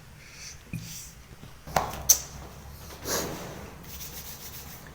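A few sharp clicks, the loudest about two seconds in, and a short rustle a little after three seconds, over a low steady background: handling noise.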